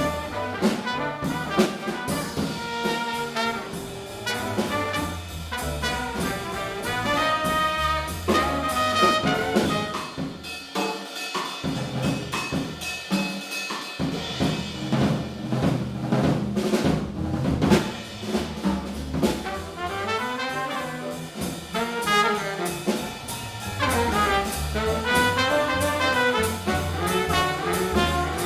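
Small jazz group playing: trumpet and baritone saxophone over piano, double bass and drum kit.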